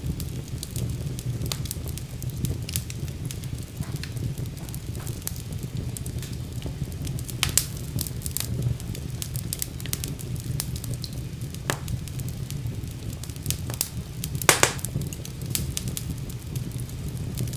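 Wood fire burning in a fireplace: a steady low rumble of flames with scattered sharp crackles and pops, a few louder pops standing out about a third of the way in and again near the end.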